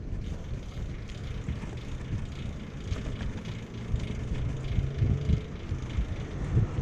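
Wind buffeting the microphone while riding a bicycle outdoors, a gusty low rumble with faint rattling, getting louder about halfway through.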